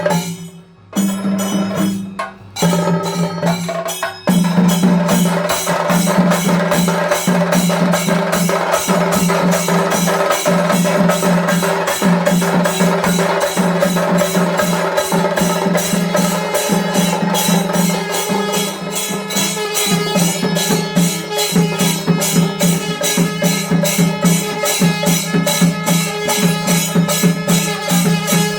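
Chenda melam: a Kerala percussion ensemble of chenda drums played with sticks. A few broken strokes at first, then about four seconds in the drums settle into continuous, fast, evenly rhythmic playing.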